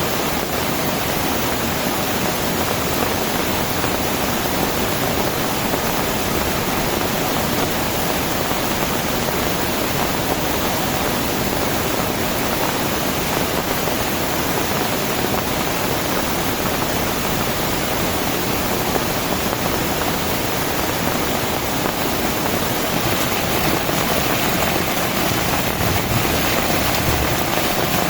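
Heavy rain falling steadily, a dense, even hiss that swells slightly near the end.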